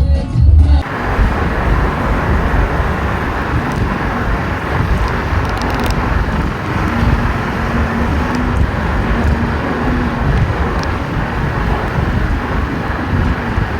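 Music cuts off about a second in, giving way to the steady road and wind noise of a car driving.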